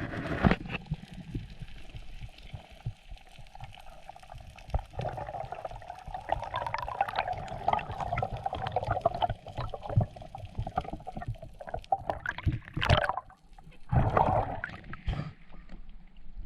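Water gurgling and sloshing around a diver's camera in the sea, with a few louder surges near the end.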